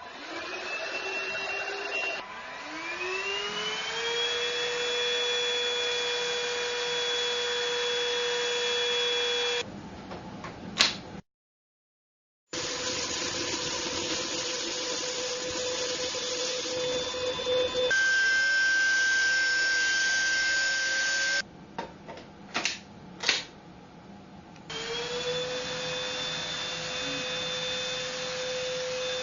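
Cordless handheld vacuum cleaner (TINTON LIFE VC812) motor spinning up with a rising whine and then running steadily. It stops and starts several times, with a few sharp clicks between runs.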